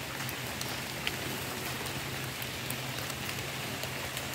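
Light rain falling on leaves and grass: a steady hiss with scattered faint drop ticks, over a faint steady low hum.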